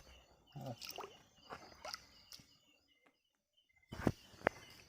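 A few scattered sharp knocks and rustles from people moving about while catching fish by hand, the two loudest knocks coming close together near the end. Behind them, night insects or frogs keep up a steady chirping.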